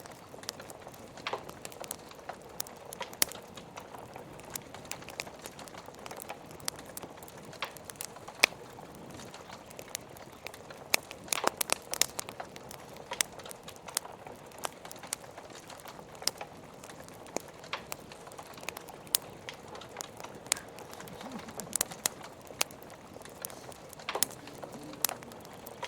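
Log fire crackling: irregular sharp pops and snaps, some in quick clusters, over a steady soft hiss.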